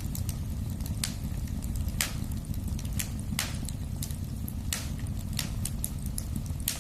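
Wood fire crackling in a fireplace over a steady low rumble of the flames. Fine ticks run throughout, with about six sharper pops, roughly one a second.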